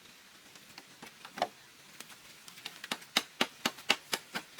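A series of sharp taps or knocks: a few scattered ones, then a quick regular run of about four a second from about three seconds in.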